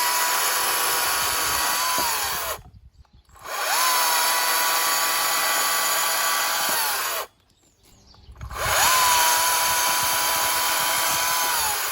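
Greenworks 40V cordless electric chainsaw run in three bursts of about three seconds each: the motor whine climbs quickly to a steady high pitch, holds, and winds down as the trigger is released.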